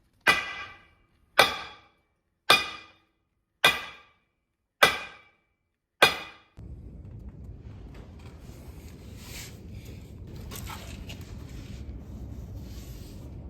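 Six ringing metallic strikes, evenly spaced about a second apart, each dying away quickly, like a hammer on steel; after the last one a steady low background rumble.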